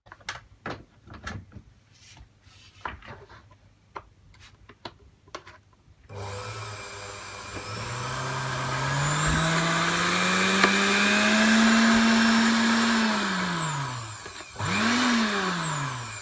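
Moulinex blender with a newly fitted motor being test-run: a few clicks and knocks of handling, then about six seconds in the motor spins up with a rising whine, runs for several seconds and winds down. Near the end comes a short second burst that spins up and dies away again.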